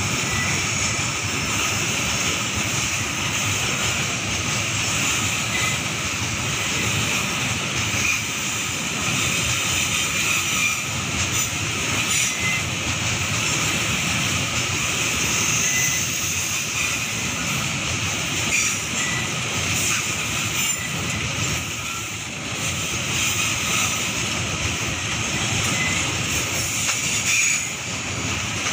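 Babaranjang coal train's open wagons rolling past, steel wheels rumbling and rattling steadily on the rails, with a steady high-pitched wheel squeal over the rumble.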